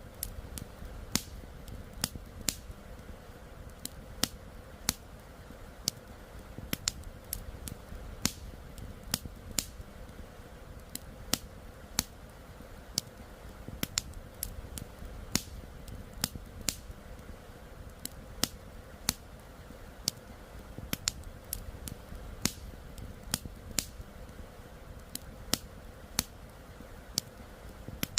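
Campfire crackling, with irregular sharp pops one to three a second, over the steady rush of a flowing river.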